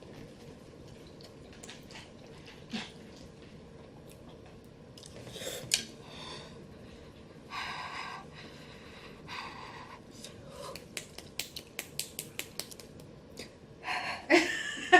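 A person chewing spicy noodles with wet mouth clicks, broken by several heavy breaths and sniffs as her mouth burns from the heat. The clicks come quickly, about three a second, near the end.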